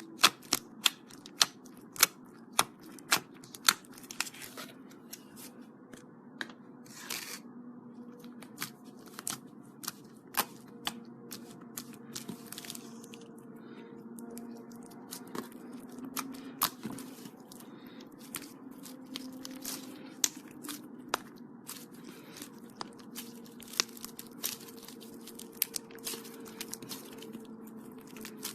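Foam-bead slime (floam) being squeezed and pressed by hand, giving a run of sharp, irregular crackles and pops, some of them loud.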